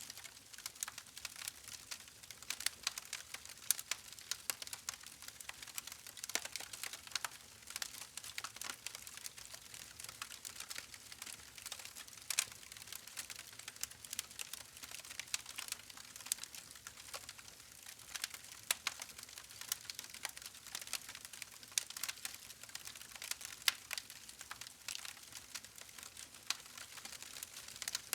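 Wood fire crackling steadily, with many small sharp pops and snaps over a faint hiss.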